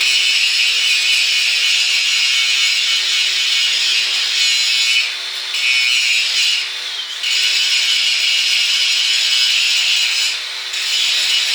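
Angle grinder grinding the steel of an anvil: a loud, continuous high hiss that dips briefly three times.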